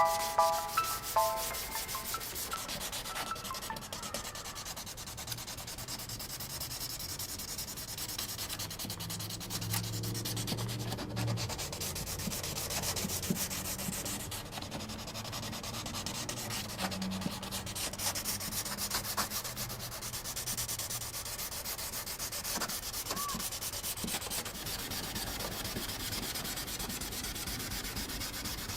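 Steady sanding or rubbing, running on without a break, opening with a few short ringing notes in the first second.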